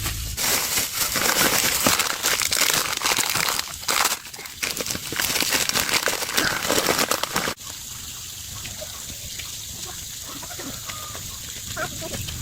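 Loud crackling, rustling noise full of small clicks, which cuts off abruptly about seven and a half seconds in. After it, a quieter outdoor background with chickens clucking faintly.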